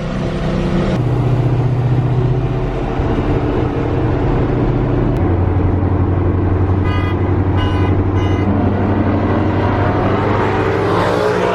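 Boosted Coyote 5.0 V8 of a widebody Mustang running at low, steady revs, with three short car-horn toots about seven seconds in. Near the end the engine revs climb in a rising pitch.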